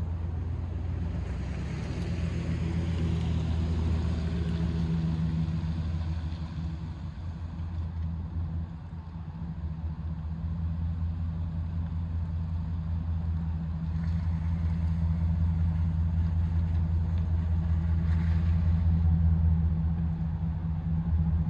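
A pickup truck running, with a steady low engine drone and some rushing road or wind noise that dips about eight seconds in and builds again toward the end.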